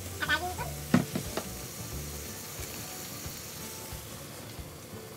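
Chicken strips and minced garlic frying in a wok, a steady sizzle, with two sharp knocks about a second in.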